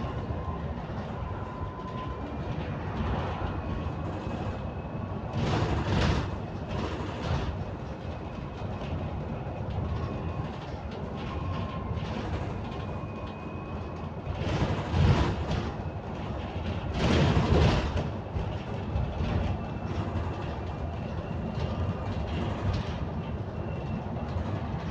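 Bus interior noise while riding: a steady rumble of the running bus with rattles, and a few louder bumps about 6, 15 and 17 seconds in. A faint thin whine comes and goes.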